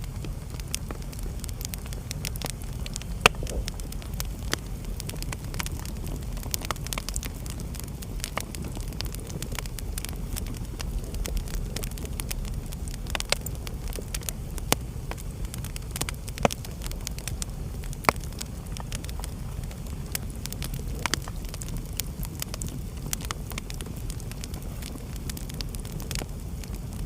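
Wood fire burning in a fireplace: a steady low rumble of the flames with frequent sharp crackles and a few louder pops, the loudest about three seconds in.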